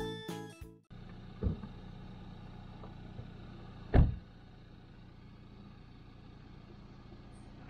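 Background music ends about a second in, leaving a steady low mechanical hum. A soft knock comes shortly after, and about four seconds in there is one loud thump.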